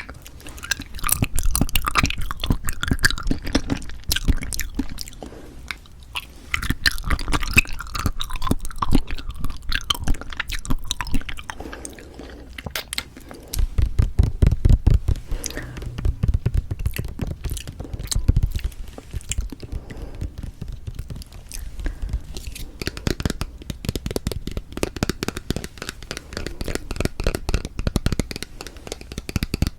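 Close-miked eating of citrus cup jelly: wet, clicky chewing and mouth sounds in bursts of a few seconds, with a heavier low rumble in the middle stretch.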